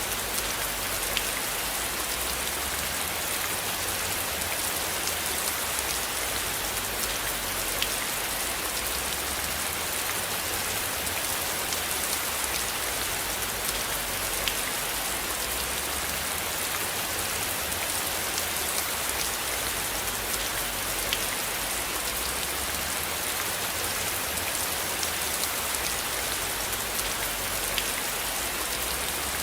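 Steady rain falling on a surface, an even hiss with scattered single drops ticking out above it.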